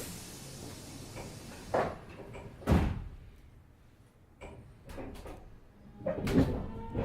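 Doors of a Meitetsu 100 series train closing at a station: a fading hiss, then several heavy knocks and thuds. Near the end the Mitsubishi GTO inverter starts its whine, rising in pitch as the train begins to move off.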